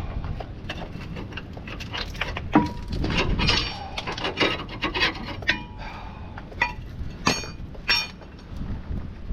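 Metal tools and parts clinking and knocking: a scatter of sharp clicks and short metallic rings, with two brighter clinks near the end.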